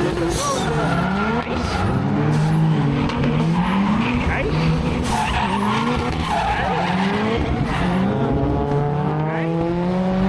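Several go-kart engines revving up and down as the karts race around the track, their pitches overlapping and rising and falling. Now and then a tyre skids.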